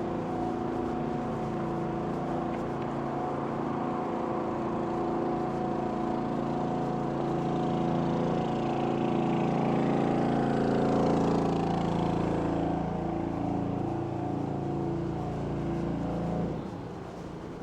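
An engine running with a steady pitched hum, its noise swelling to a peak about two-thirds of the way in as something passes close. The engine sound cuts off suddenly near the end.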